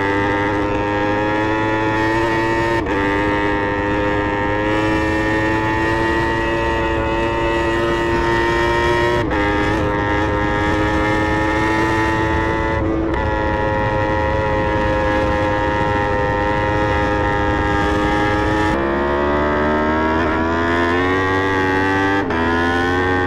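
Yamaha R1 inline-four motorcycle engine running at high revs, its note dipping briefly several times and then climbing quickly near the end.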